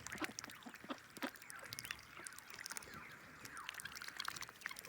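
Ducks, geese and chickens feeding: many scattered light pecking and dabbling clicks, with a few short soft bird calls.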